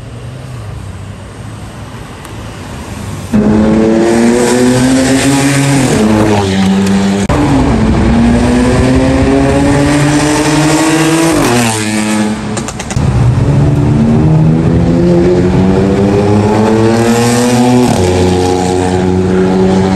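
Mercedes-AMG GLC 43's 3.0-litre twin-turbo V6, remapped to stage 2, accelerating hard. After about three seconds of quieter low running, the engine note climbs in pitch and drops back at each upshift, several times over.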